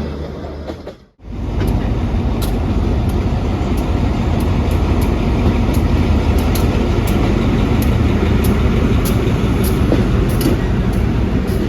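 A train running past with a steady rumble and repeated sharp clicks as its wheels cross rail joints. This follows a low engine rumble that fades and cuts off about a second in.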